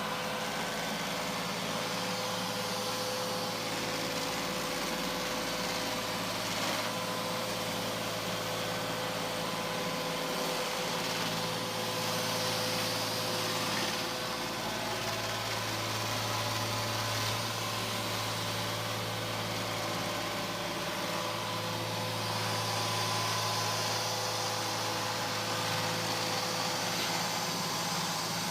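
Neato Botvac D7 robot vacuum running steadily: a motor hum with a few held tones over an even hiss of suction, swelling slightly now and then.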